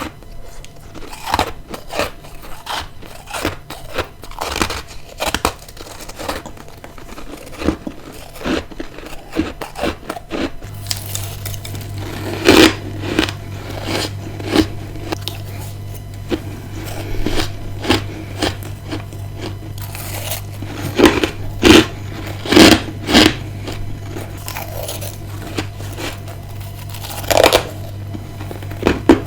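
Ice being bitten and chewed close up: irregular sharp crunches, the loudest in the second half. A steady low hum sets in about eleven seconds in.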